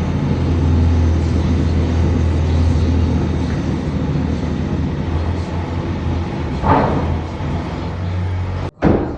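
Construction machinery heard through the building as a steady low mechanical rumble with a deep hum, swelling briefly about two-thirds of the way through. It cuts off abruptly near the end, followed by a single sharp bang.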